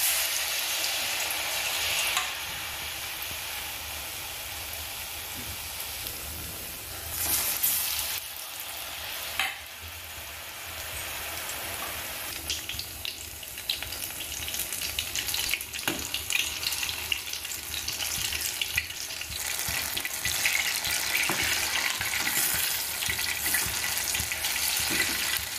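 Batter-coated ripe plantain slices deep-frying in hot oil in a steel pan, with a steady sizzle and a louder burst of sizzling about seven seconds in. The crackling grows busier and louder through the second half.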